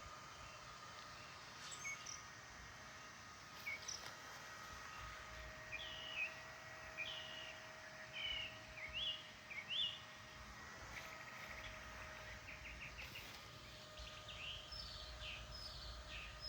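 Small birds chirping: short sweeping notes, a run of them from about six to ten seconds in, then a quick rattling trill, over a faint steady hum.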